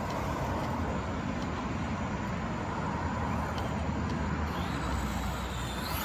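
RC rally car driving, a steady running noise with a faint steady motor whine.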